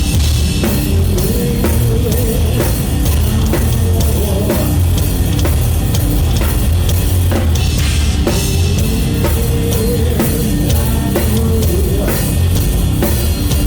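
A rock band playing live, with a full drum kit driving a steady beat over distorted guitars and bass.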